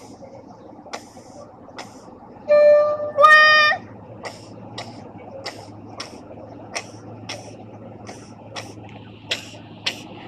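Horn of a FEVE 1650-series diesel locomotive hauling a freight train: two short blasts about three seconds in, the second a little higher and longer. Wheels click over rail joints about twice a second over the engine's steady low hum.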